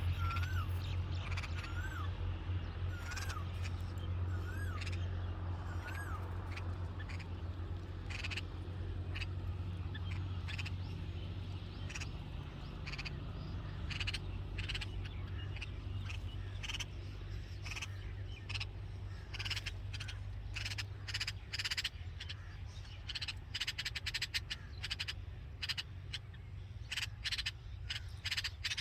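Red-vented bulbul at the nest calling a short up-and-down whistled note about once a second for the first few seconds. After that comes a long run of short, sharp, raspy clicks over a steady low rumble.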